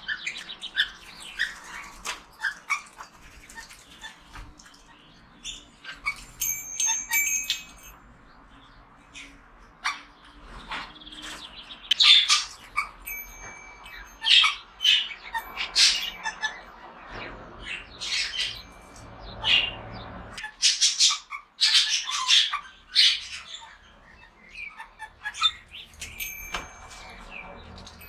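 Budgerigars chirping and squawking in many short, sharp calls, with a few held whistle-like notes mixed in.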